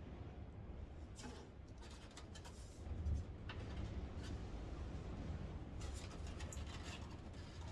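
Scattered small clicks, taps and scrapes of hand tools and fasteners being worked loose around a pickup's headlight trim, with a duller knock about three seconds in, over a steady low rumble.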